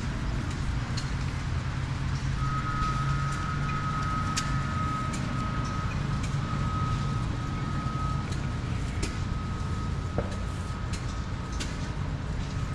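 An engine running steadily with a low drone, a thin steady whine starting a couple of seconds in, and scattered light clicks.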